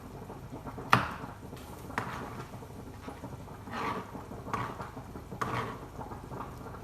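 Kitchen prep knocks: a sharp knock about a second in, a lighter one a second later, then three softer short scraping taps.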